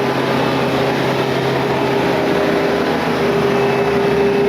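Steady drone of machinery running on the airport ramp beside the parked Boeing 727, a constant hum with a steady mid-pitched tone over a wide rushing noise.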